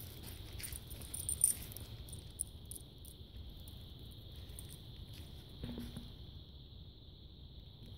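Steady high chirring of insects such as crickets, with light crackling clicks over the first couple of seconds.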